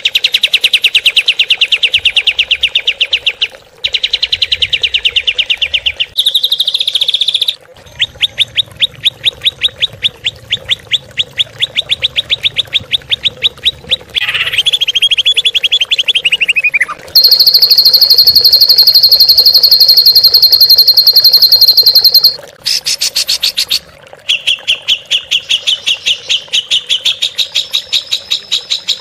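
Songbird recording for bird training: a run of rapid, high trills and chirps in short spliced segments that break off abruptly, with one long steady high buzzing note about midway.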